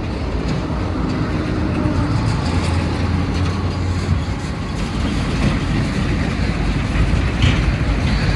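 Heavy truck's diesel engine running with a steady low rumble; a deeper drone holds for about a second and a half near the middle.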